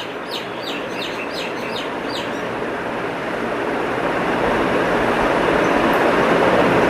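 A small bird gives a quick run of about eight short chirps over the first couple of seconds. Under it runs a steady rushing noise of an approaching vehicle that slowly grows louder.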